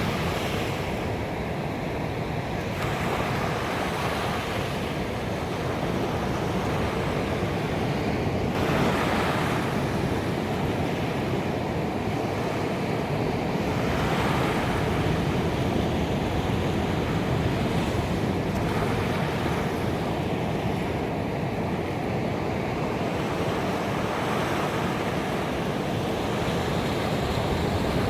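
Ocean waves breaking on a beach: a continuous wash of surf, with a wave swelling and breaking every few seconds.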